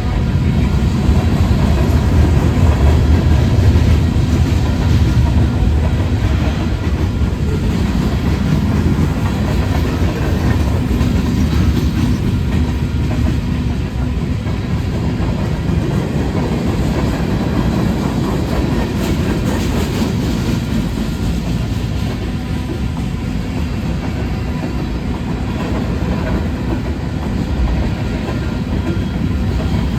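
Freight train rolling past, a steady loud rumble of railcar wheels on the rails with a clickety-clack from the track.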